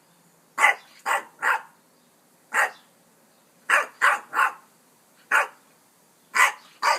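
French Bulldog puppy play-barking: about ten short, sharp barks, in clusters of one to three with brief pauses between them.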